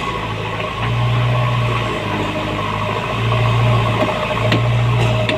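Diesel engine of a JCB backhoe loader running, its low drone swelling and easing every second or so as the load changes, with a steady higher whine over it.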